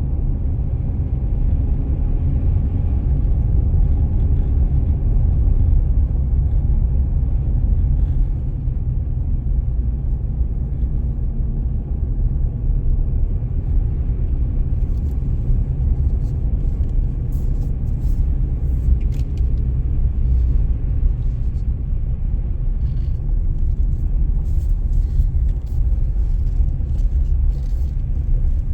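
Car driving in snow: a steady low rumble of engine and road noise, with faint light ticks from about halfway on.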